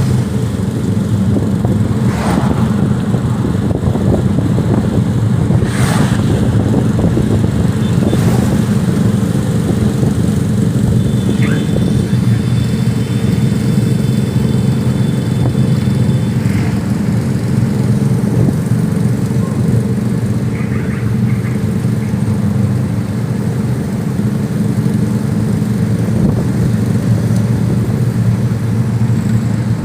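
Motorcycle engines running steadily, an even low drone with no clear revving.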